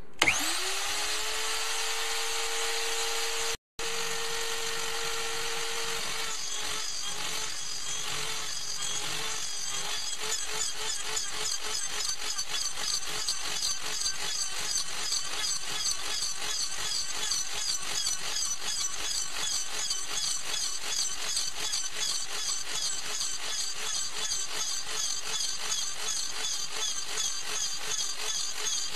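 Hobby CNC mini mill's spindle starting up to a steady whine, then from about six seconds in the end mill cutting aluminium along a trochoidal path, a rapid repeating chatter over the spindle whine. The sound cuts out briefly near four seconds.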